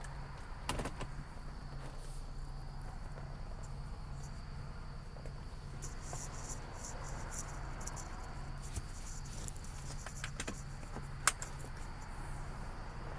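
2008 Ford Edge running, with a low hum that pulses about three times a second and a few sharp clicks; the owner puts the noise down to a failing transfer case.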